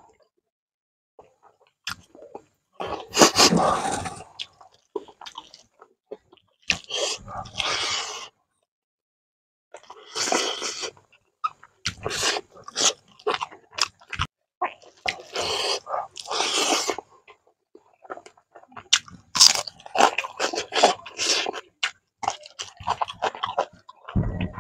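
Close-up chewing of a mouthful of rice and fish curry, with crunching, in bursts of a few seconds separated by short silent pauses.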